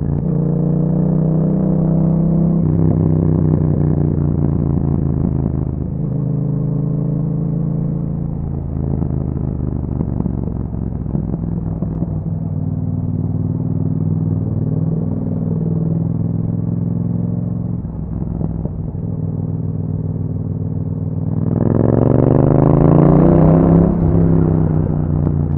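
Yamaha MT-07's 689 cc parallel-twin engine running through an Akrapovic exhaust while riding, its note shifting with throttle and gear changes. About 21 seconds in it revs up harder, louder and rising in pitch, then eases off near the end.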